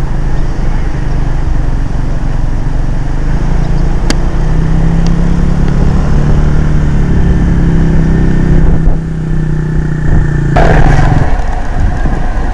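Honda CRF50's small single-cylinder four-stroke engine running steadily, its pitch rising a little about halfway through as it picks up speed. Near the end a sudden rush of noise cuts in and the engine sound drops away.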